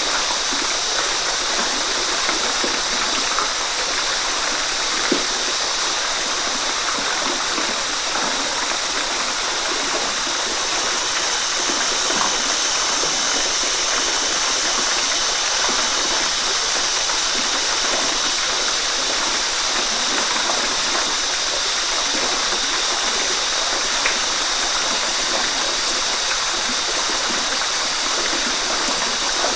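Waterfall: a steady, unbroken rush of falling water, with a couple of faint brief splashes standing out.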